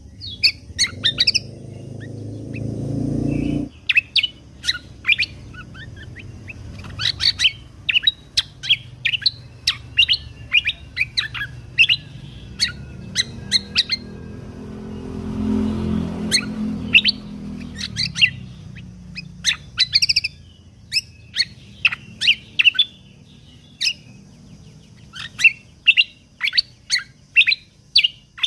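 Kecial kombo (cucak kombo) songbird singing in rapid series of short, sharp, high chirps, one burst after another. A low rumble sits underneath in the first few seconds and again around the middle.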